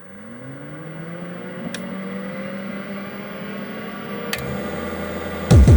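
Electronic music build-up: synth tones sliding upward in pitch and slowly getting louder, with a low bass note entering about three-quarters of the way through. Loud drum-and-bass drums come in right at the end.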